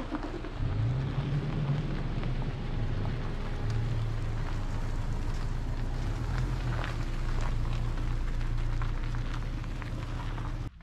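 A vehicle driving: a steady low engine drone with a crackling rattle of tyres and loose surface, cutting off suddenly near the end.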